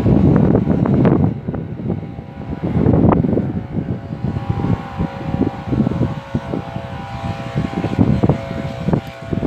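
Strong gusting wind buffeting the microphone, a low rumble that swells and dies away in gusts, loudest at the start and again about three seconds in.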